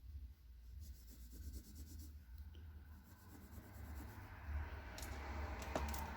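Scratchy rubbing of small batteries being scoured to clean oxidation off their contacts, building over the second half, with a couple of sharp clicks near the end.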